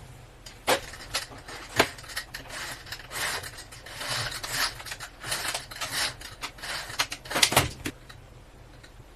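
Objects being handled: a series of sharp knocks and clicks with rubbing and scraping between them, stopping about eight seconds in.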